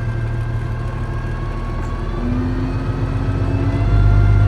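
Peterbilt 359 dump truck's diesel engine running steadily, with a faint slightly rising whine joining about halfway. The low engine hum gets louder near the end.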